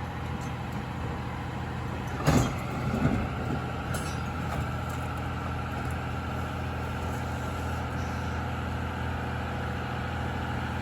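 Heavy diesel engine of a Cat 352 excavator running steadily while the machine swings. About two and three seconds in there are two brief louder sounds.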